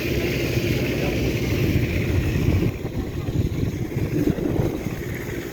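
An engine running steadily at low revs, a continuous rumble. It eases off a little about halfway through.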